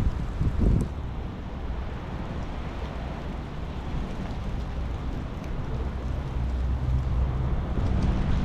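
Steady rain hiss with a low rumble underneath. A brief low swell comes about half a second in, and the rumble grows louder over the last couple of seconds.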